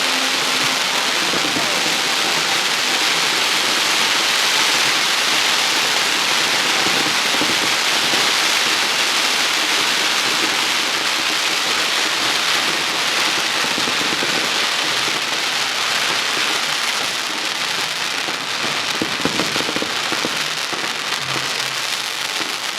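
Fireworks crackling: a dense, continuous mass of tiny pops that blend into a rain-like hiss, easing off slightly near the end.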